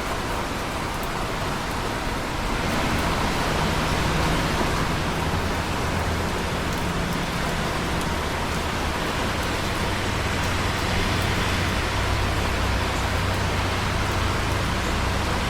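Steady, heavy rainfall, a dense even hiss of drops, with a low rumble underneath that swells a few seconds in.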